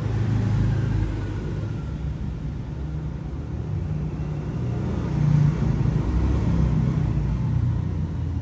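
Low, steady background rumble, swelling a little about five seconds in.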